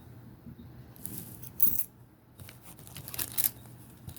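Metal car keys being handled, with a few short bursts of clinking and rustling about a second in and again around three seconds in.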